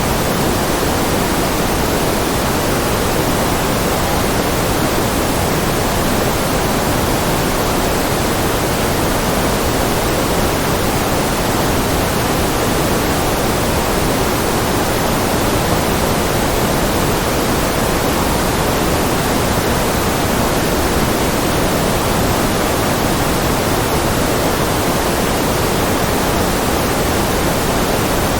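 Steady generated white noise: an even, unchanging hiss with no breaks or events.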